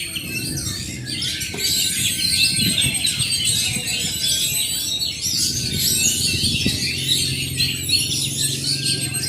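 Several caged Oriental magpie-robins singing at once: a dense, continuous stream of overlapping chirps, whistles and trills.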